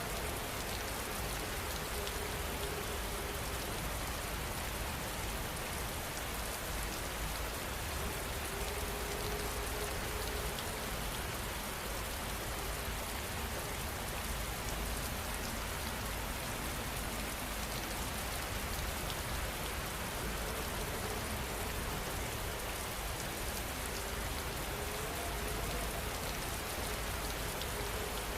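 Steady, continuous rainfall, an even hiss of drops falling on a surface with no thunder or pauses.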